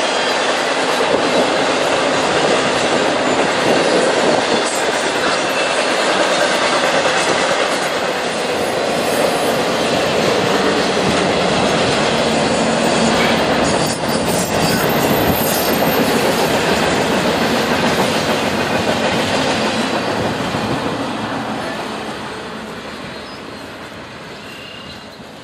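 CSX intermodal freight train's loaded container and trailer cars rolling past, steel wheels clattering on the rails with some high wheel squeal. The sound fades steadily over the last few seconds as the end of the train moves away.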